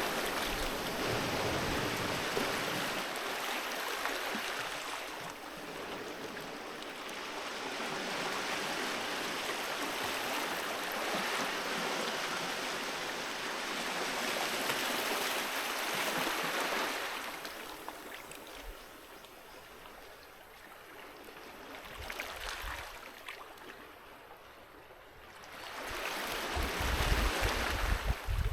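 Sea waves washing onto the shore, swelling and receding in a slow even hiss. A quieter lull comes about two-thirds of the way through, then a louder, deeper surge near the end.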